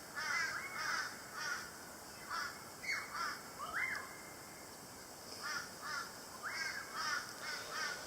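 Crows cawing in repeated runs of short calls, with two rising calls near the middle.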